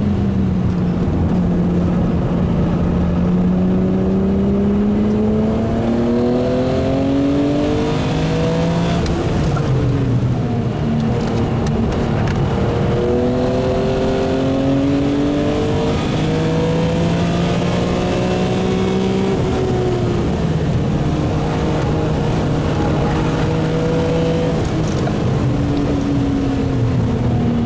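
BMW E36 M3 Evo's S50B32 3.2-litre straight-six running hard at racing speed, its pitch climbing as it pulls through the revs and dropping sharply at gear changes about ten and twenty seconds in, with a steadier stretch after the second drop.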